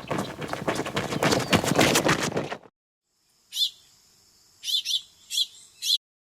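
A rapid fluttering of wings for about two and a half seconds, then a small bird giving five short high chirps over a faint steady high hum.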